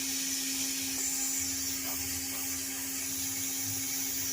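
Small vacuum cleaner running steadily, blowing air into the tailpipe to pressurise the exhaust, with a steady hiss of air escaping from a leak near the downpipe's flexible section.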